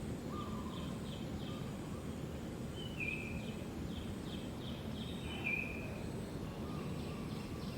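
Birds chirping over a steady outdoor background noise: quick runs of short high notes, about four a second, near the start and again around the middle, with two longer held notes about three and five and a half seconds in.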